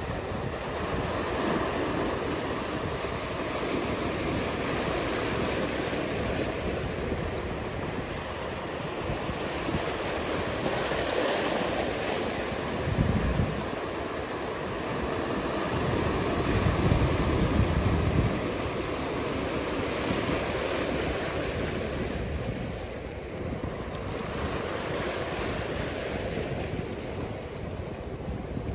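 Ocean surf breaking and washing in a steady rush, with wind buffeting the microphone in low rumbling gusts about halfway through.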